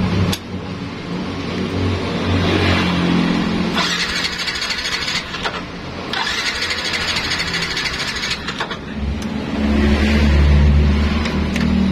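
Motor vehicle engine sound whose pitch rises and falls, with two stretches of harsh hissing noise about four and six seconds in.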